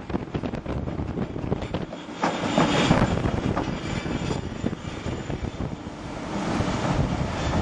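Strong wind buffeting the microphone, with a louder, broad rushing sound swelling up about two seconds in and holding until near the end.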